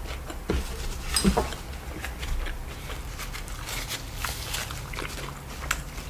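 Close-miked chewing of a mouthful of fried chicken sandwich: wet mouth sounds with many small scattered clicks, and a brief hum about a second in.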